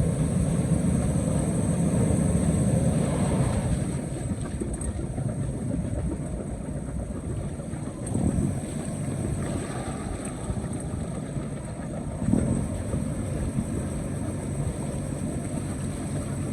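Canal tour boat's engine running steadily with a low rumble, louder in the first few seconds, with two brief swells later on.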